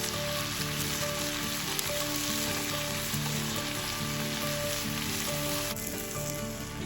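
Food frying in a hot pan, a steady loud sizzle that cuts off abruptly near the end, with background music underneath.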